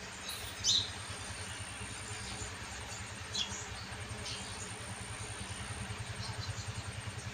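An engine idling, a steady low pulsing of about ten beats a second that grows slightly stronger near the end, with a few short high bird chirps over it.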